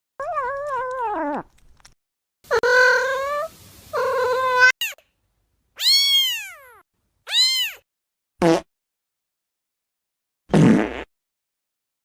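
A string of separate cartoon-style cat meows and pitched sound effects: a falling call, two wavering calls, two quick tones that rise and fall, a short falling blip, and a short noisy burst near the end.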